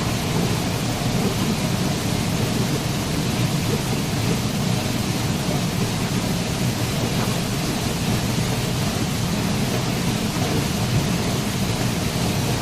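Waterfall: water pouring steadily, a continuous deep rushing roar with no change in level.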